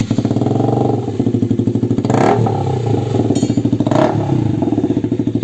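KTM RC 200's single-cylinder engine running with the silencer removed, its open exhaust note a rapid, even pulsing. There are two brief surges in engine sound, about two and four seconds in.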